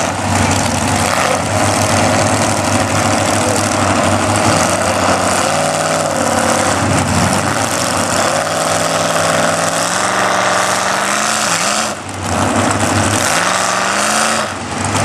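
Mud-bog truck's engine revving hard in the mud pit, its pitch rising and falling again and again, over a loud steady noise.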